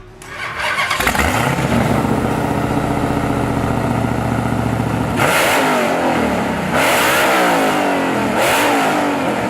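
Supercharged 426 cubic-inch aluminum-block Gen 3 HEMI V8 ('Hellephant') comes up to a steady idle about a second in. It is then revved three times, each rev rising and falling in pitch.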